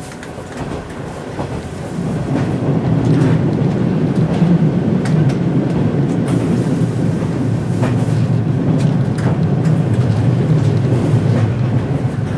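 Running noise heard inside a passenger car of a JR East 185 series electric train: a steady rolling rumble that grows louder about two seconds in, with scattered sharp clicks and knocks from the wheels and track.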